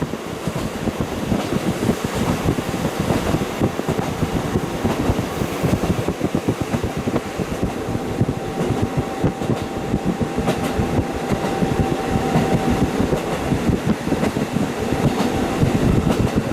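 KiHa 40 diesel railcar running along the line, heard through a fully open window: the wheels on the rails, the diesel engine and rushing wind blend into a steady, loud noise. Occasional clicks of the wheels over rail joints and a faint steady whine run through the middle.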